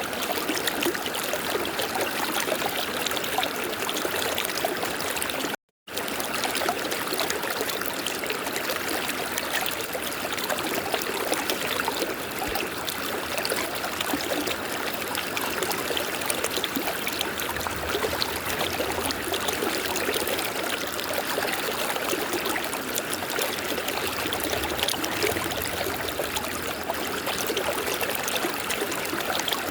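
River water flowing steadily, an even rushing and trickling. It breaks off in a brief dropout to silence about five and a half seconds in.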